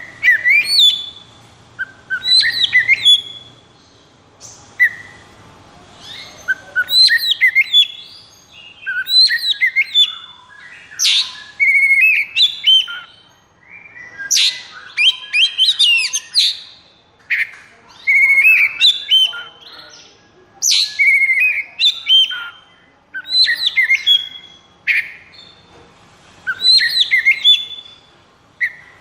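Oriental magpie-robin (kacer) singing: loud whistled phrases of sweeping and trilled notes, repeating every couple of seconds with short pauses between them.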